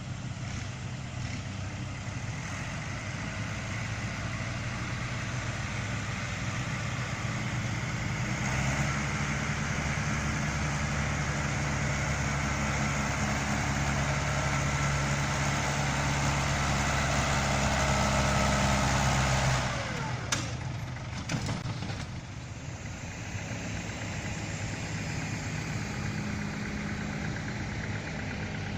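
Tractor engine running under load while pulling concrete slabs. It grows louder and heavier about eight seconds in, holds there, then drops back suddenly after about twenty seconds. A few sharp knocks follow, and it settles into steadier, quieter running.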